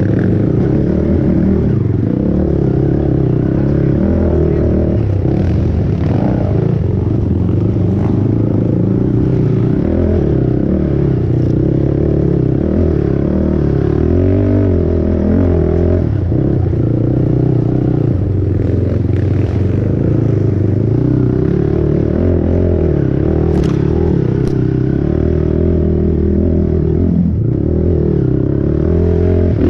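Racing ATV's single-cylinder four-stroke engine, a Honda TRX450R, run hard on a dirt track, its pitch repeatedly rising and falling as the throttle is opened and rolled off through the gears.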